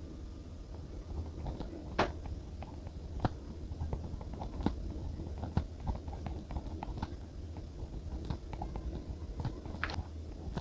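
Irregular small taps and clicks of stationery being handled on a desk while journaling: pen, paper and sticker sheets set down and picked up, with a few sharper knocks along the way.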